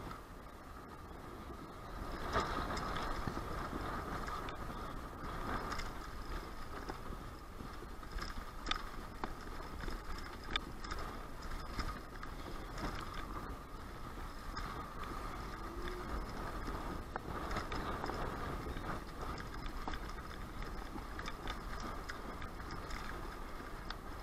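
Strong wind rumbling on the microphone, mixed with steady outdoor traffic noise, with a few faint clicks.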